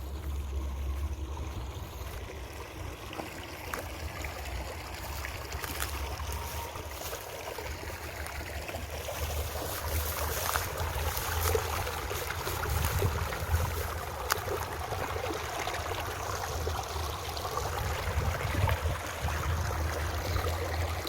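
Wind rumbling on the microphone over a steady hiss, with scattered small crackles and ticks that grow more frequent in the second half.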